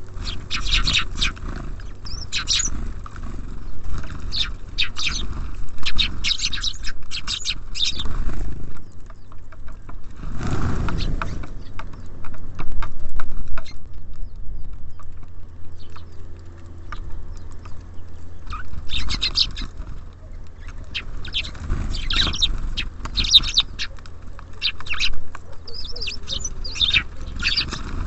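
Small songbirds chirping and chattering in bursts of quick, high calls, over a steady low hum. About ten seconds in there is a louder, rougher burst of noise.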